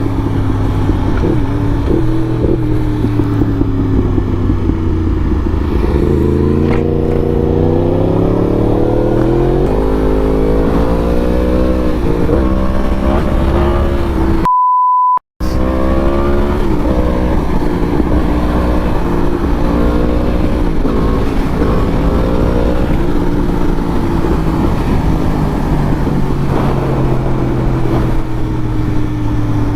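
Motorcycle engine running under way, rising in pitch as it accelerates several seconds in and then wavering up and down. About halfway through the sound cuts out for about half a second, leaving a short high beep.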